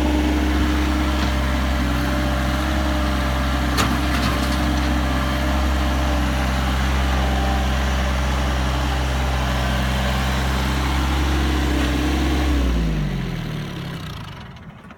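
Mahindra eMAX 22s tractor's three-cylinder diesel running steadily, then shut off near the end, its note sliding down as it winds to a stop.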